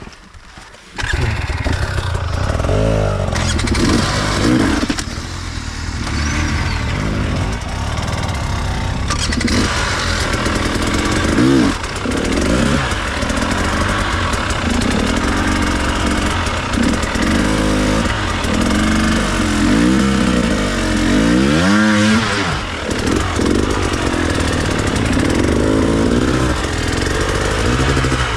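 Enduro dirt bike engine that picks up sharply about a second in, then runs continuously with the revs rising and falling as the throttle is worked.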